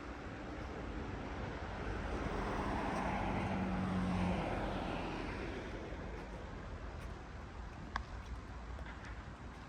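A motor vehicle passing by: its engine and road noise swell to a peak a few seconds in, then fade away. A single sharp click comes near the end.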